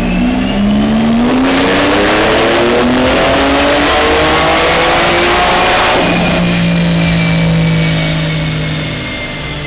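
The Porsche 911 Turbo S's twin-turbo flat-six on Stage 1 tune pulls at full throttle, its note rising steadily in pitch for about six seconds with a faint high whine climbing alongside. The throttle then closes abruptly and the engine settles to a steady lower note that fades.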